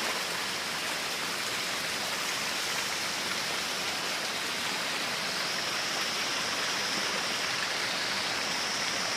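Mountain stream water rushing steadily, an even unbroken noise, with a faint high steady tone above it.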